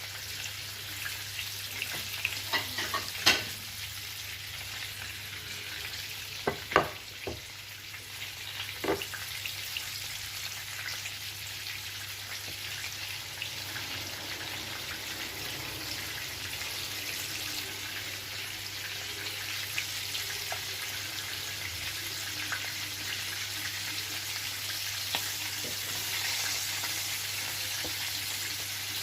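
Flour-dredged sardines frying in hot oil in a pan, a steady sizzle, with a few sharp knocks and clinks in the first several seconds.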